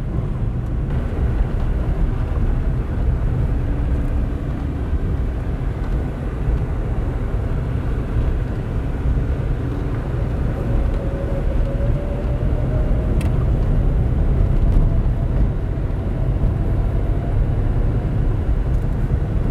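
Car driving, with steady road and engine noise heard from inside the cabin, heaviest in the low rumble.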